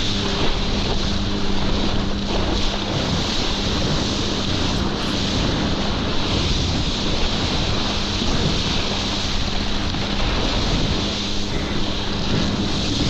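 Jet ski engine running at a steady speed, a constant low hum, under heavy wind noise on the microphone and rushing water.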